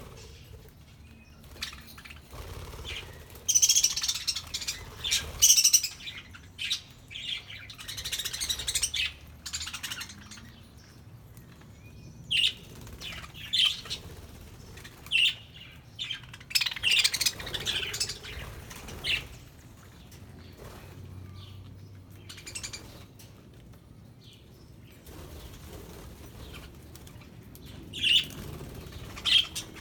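A flock of budgerigars chirping and chattering in irregular bursts, with a few short, sharp calls standing out.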